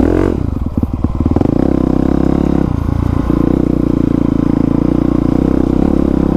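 2020 Honda CRF450R's single-cylinder four-stroke engine, fitted with a new aftermarket exhaust, running at fairly steady revs while riding, with brief changes in revs near the start and about three seconds in.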